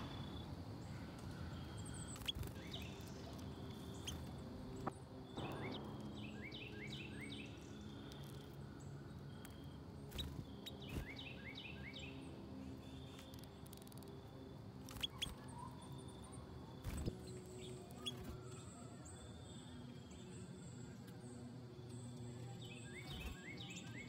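Small birds calling in three bursts of quick falling chirps, over faint high bird notes in the background. A few sharp taps stand out among them.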